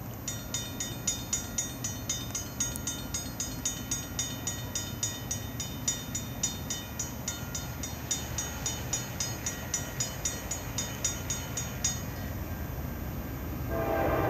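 A railroad bell dinging steadily about three times a second, stopping near the end, as a Norfolk Southern train's air horn starts to blow.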